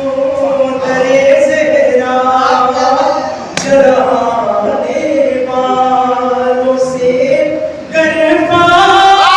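A man's voice chanting an Urdu devotional lament (peshkhwani) in long held, ornamented notes, with a brief pause about three and a half seconds in. A single sharp click comes just after the pause.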